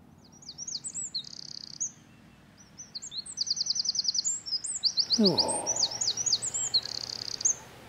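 Songbirds chirping and singing, with quick repeated trills. About five seconds in, a short falling vocal 'ooh'.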